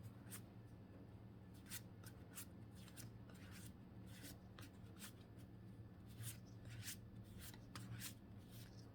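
Faint handling of Pokémon trading cards: cards slid and flipped one behind another in the hand, giving soft swishes and light clicks at an irregular pace.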